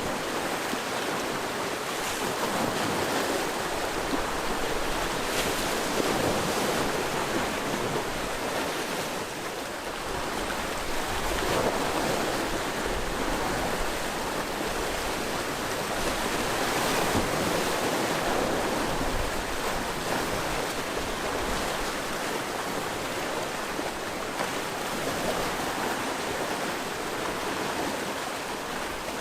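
Sea waves breaking and washing against a rocky shore, a continuous rush of surf that swells and eases every few seconds, with some low wind rumble on the microphone.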